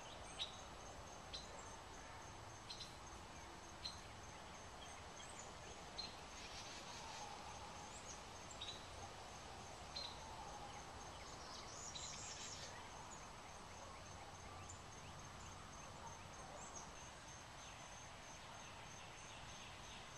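Faint outdoor ambience with short, high bird chirps every second or two, each falling slightly in pitch, over a steady background hiss and a faint high pulsing tone.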